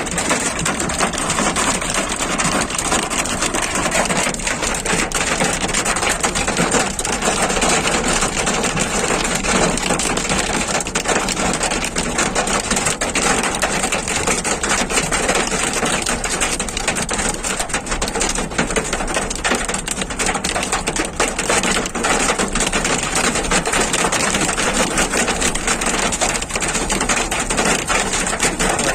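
Hail and heavy rain pelting down: a dense, unbroken patter of hard little clicks as the hailstones strike.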